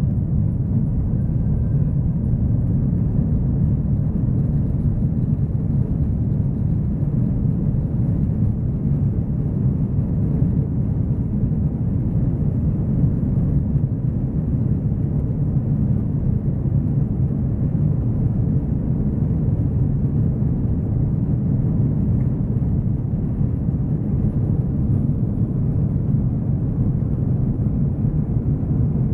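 Airbus A330-200 airliner during taxi or takeoff: a steady, loud low rumble of engines and airframe, with no change in pitch or level.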